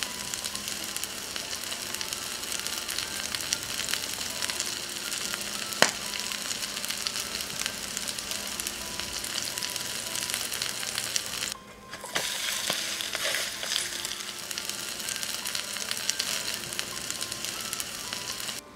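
Water parsley and shrimp pancake batter sizzling and crackling steadily in hot cooking oil in a frying pan. One sharp tap sounds about six seconds in, and the sizzle breaks off for about half a second about two-thirds of the way through.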